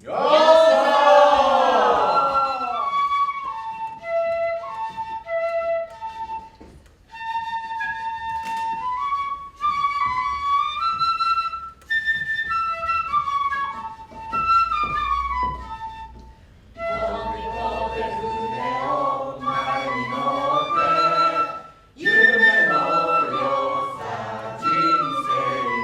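A flute playing a slow melody of held single notes. About two-thirds of the way through, a group of voices joins in singing.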